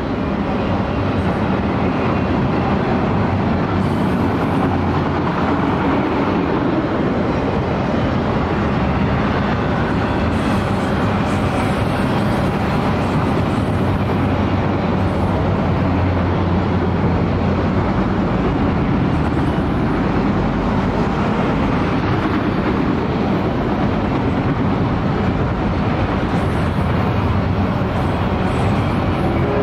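CSX autorack freight cars rolling past close by: a steady, loud rumble of steel wheels running on the rails.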